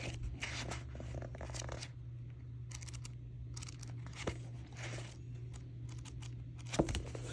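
Faint, irregular rustling, crinkling and scraping of paper and packaging as a card deck's guidebook is handled, with a few small clicks, over a steady low electrical hum.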